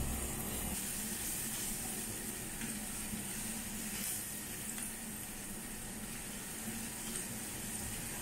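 Minced garlic and pepper frying gently in oil in a non-stick pan: a steady sizzle, with a few light scrapes of a silicone spatula stirring.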